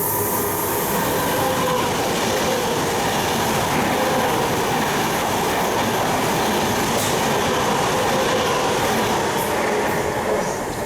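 Passenger train running through a station, a steady rumble of wheels on rail with some clickety-clack and a faint whine over it, easing a little near the end.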